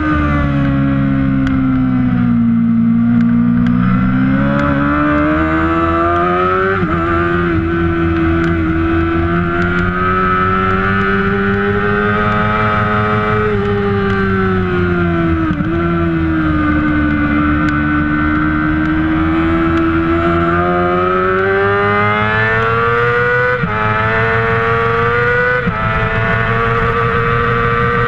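Kawasaki ZX-6R 600cc inline-four race engine running hard, its pitch falling as it slows and climbing again through the gears several times. A few sudden steps in pitch mark the gear changes.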